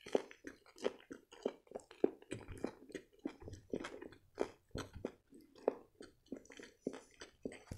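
A person chewing a mouthful of turkey shawarma, with a bite at the start, in a steady run of about three chews a second.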